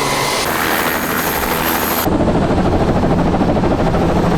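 Helicopter running, its rotor beating rapidly and steadily under engine noise. About two seconds in, the high hiss drops away suddenly and the rotor beat comes forward.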